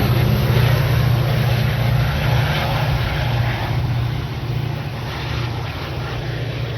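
Diesel train running past with a steady low engine drone over rail and wheel noise, easing off a little from about four seconds in.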